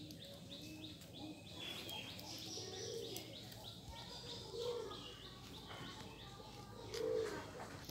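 Birds cooing and chirping: low cooing calls come several times, the loudest near the end, over rapid high-pitched chirping.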